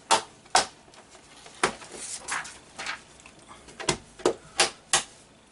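Sharp plastic clicks and knocks, about eight spread unevenly, with some rustling between them: cables and their plugs and clips being handled and pushed into place.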